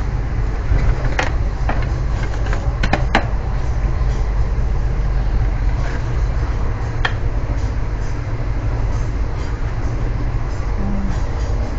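Steady low rumble of a double-decker passenger train running, heard from inside the carriage, with a few sharp clicks and knocks about a second in, around three seconds in, and once more near seven seconds.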